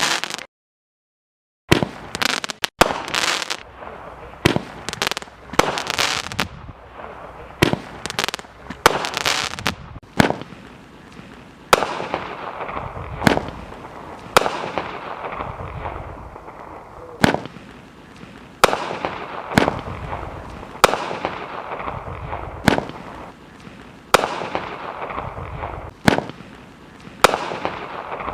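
Roman candles firing: a sharp pop as each shot leaves the tube, each trailed by a fading hiss. After a brief silence near the start, the shots come fast and overlapping, then settle to about one every second and a half.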